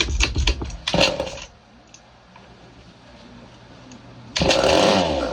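Early-1970s Craftsman chainsaw (a Poulan copy) with its two-stroke engine being pull-started. It opens with a clattering pull. About four seconds in, the engine fires and runs loudly for about a second, then dies away with falling pitch, blowing debris out of the muffler.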